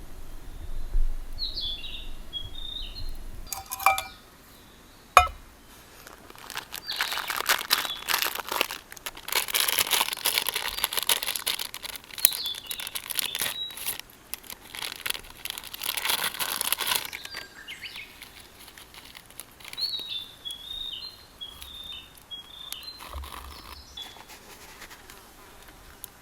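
A songbird sings short, quickly wavering phrases near the start and again near the end. In between come two sharp knocks, then about ten seconds of dense crackling and rustling, the loudest sound here.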